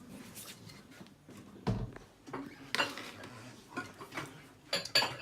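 Spoon and bowls clinking and knocking in irregular short strikes while porridge is dished out, with a dull knock about a third of the way in and a quick run of sharper clinks near the end.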